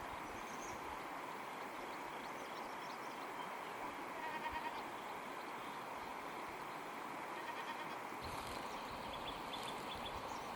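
Goats bleating in short, wavering calls a few times over a steady background hiss.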